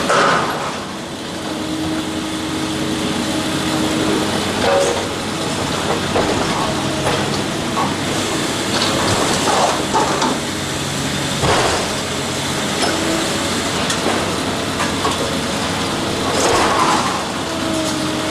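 Heavy machinery running steadily, with engine tones that shift in pitch and sharp crashes or clanks every few seconds.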